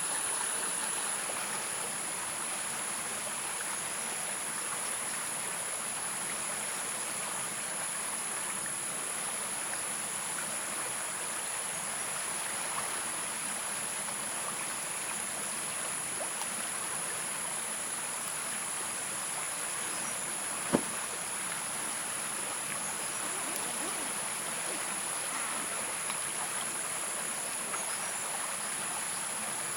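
Steady rushing of a flowing stream with a constant high-pitched insect buzz over it. A single sharp click sounds about two-thirds of the way through.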